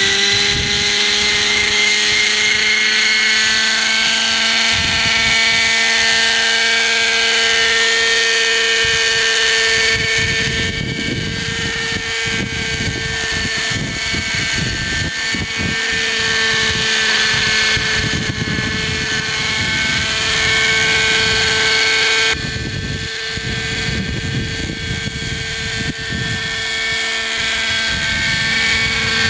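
Hirobo Sceadu model helicopter's .50-size two-stroke nitro glow engine running at steady revs with the rotor turning: a high whine with many overtones, rising slightly in pitch over the first couple of seconds. The owner says the fuel mixture was off, so it runs at lower revs than it should. A low rumble of wind on the microphone comes and goes from about a third of the way in.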